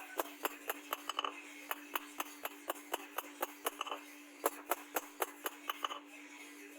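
Rapid sharp taps or knocks in a steady rhythm of about four a second, stopping about six seconds in, over a faint steady hum.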